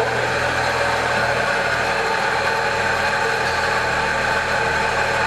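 Car engine running steadily at a constant speed, with an even hum and no changes in pitch; it is a freshly fitted engine on one of its first runs.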